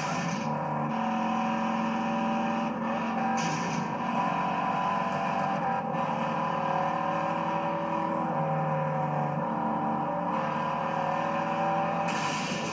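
Big V8 engines of the chase cars, a Ford Mustang GT 390 and a Dodge Charger R/T, running hard at sustained high revs, with short hissing bursts near the start and near the end.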